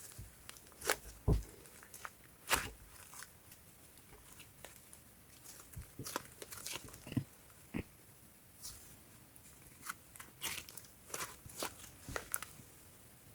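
Green fluffy slime being squeezed and worked by hand, giving irregular soft crackles, clicks and pops with short pauses between them.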